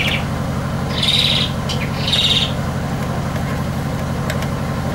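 A bird calling twice in short, high chirps about a second apart, over a steady low hum.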